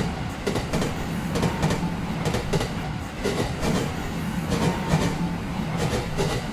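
A train running, with a steady low rumble and sharp clacks of its wheels passing over rail joints, often in pairs.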